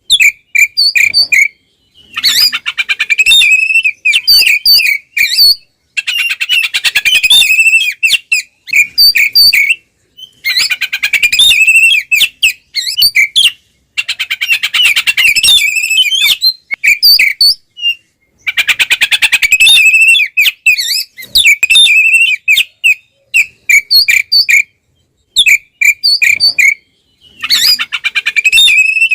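Oriental magpie-robin (kacer) singing loudly and continuously: runs of clear, sharp whistled notes alternate with dense bursts of fast chattering notes a few seconds long, with brief pauses between phrases. This is the full 'ngeplong' fighting song, the aggressive territorial singing of a male in top form.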